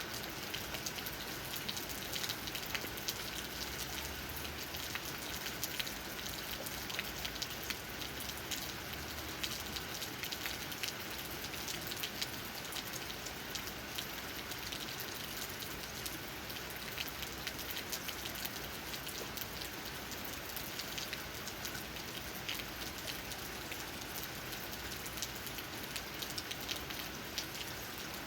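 Steady rain falling, with many small drops tapping on leaves.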